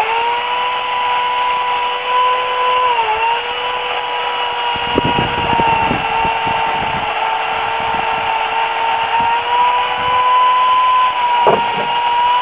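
Remington Limb N Trim 8-amp electric chainsaw running at full speed while cutting wood: a steady high whine. Its pitch sags briefly twice as the chain bogs under load. Irregular low knocks and crackles run through the middle of the cut.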